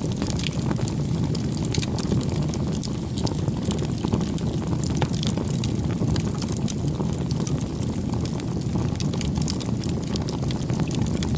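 Wood campfire burning: a steady low rumble of the flames with frequent sharp crackles and pops of the burning wood.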